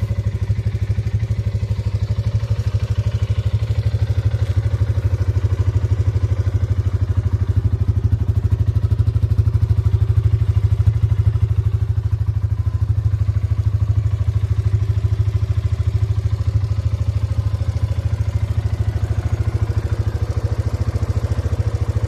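Suzuki KingQuad 400 ASi quad bike's single-cylinder four-stroke petrol engine running steadily at an even, unchanging speed, with a rapid regular beat of firing pulses.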